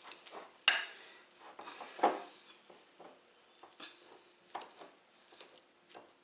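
Kitchenware being handled: a series of light clinks and knocks, the sharpest about two-thirds of a second in and another about two seconds in, then smaller taps.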